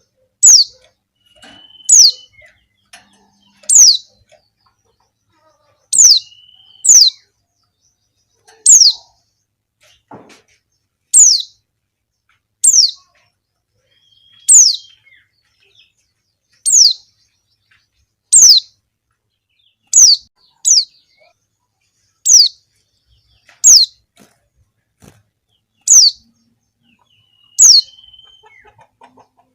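A female white-eye (pleci) repeats a single thin, high call that drops sharply in pitch, about once every second and a half to two seconds. This is the female call used to draw male white-eyes into song.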